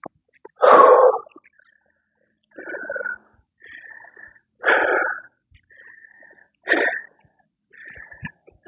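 A man's short, forceful breaths, about one a second, as he works through bodyweight exercise reps such as push-ups or squats.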